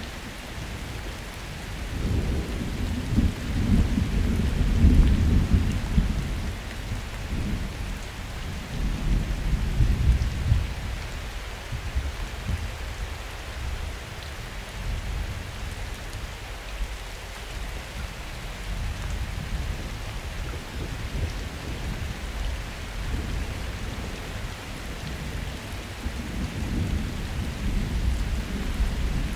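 Summer thunderstorm: steady rain falling with thunder rumbling low, swelling about two seconds in, again around ten seconds, and once more near the end.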